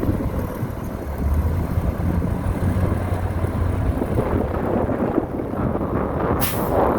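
Heavy earthmoving machine's diesel engine running steadily, with a short sharp hiss near the end.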